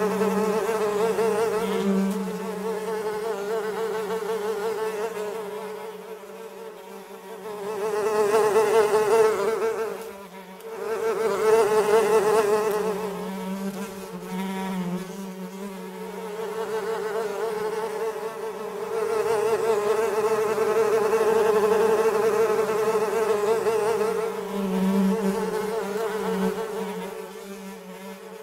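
Flies buzzing in flight: a wavering drone that swells louder and fades away several times, with a brief drop about ten seconds in.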